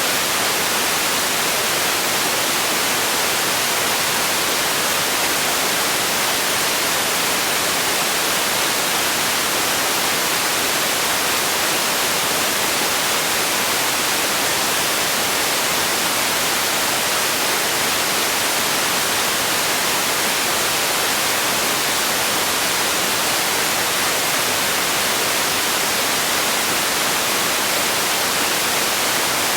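Steady, unchanging synthetic noise, a hiss brightest in the upper range, played as a sleep and relaxation track.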